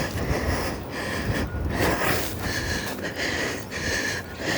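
A person breathing hard while trudging uphill through deep snow, with boots crunching in the snow at a steady walking pace.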